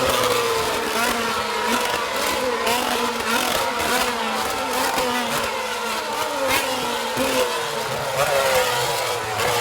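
Formula One cars' 2.4-litre V8 engines at racing speed on a circuit, one passing after another, each engine note high and falling in pitch as it goes by.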